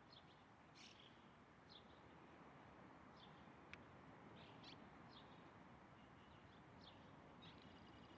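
Faint, short high-pitched bird chirps repeating roughly once a second over a steady hiss, with one sharp tick partway through.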